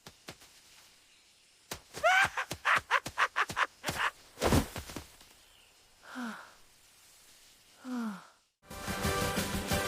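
An animated character's wordless voice: a quick run of short breathy vocal sounds, a brief burst of noise, then two falling sighs about two seconds apart. Music starts again near the end.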